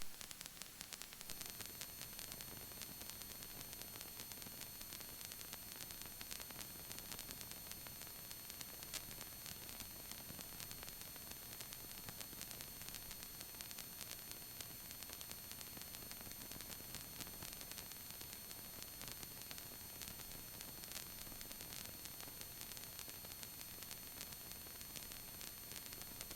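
Faint steady hiss of a helicopter headset intercom feed, with thin, steady, high-pitched electronic whines over it.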